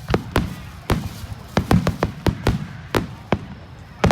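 Fireworks bursting overhead: an irregular run of about a dozen sharp bangs over a low rumble, with a loud cluster at the very end.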